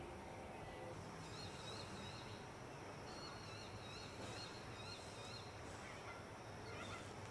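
Faint outdoor ambience: a bird sings a quick, repeated warbling note, high-pitched, over a steady background hiss. It pauses briefly before going on.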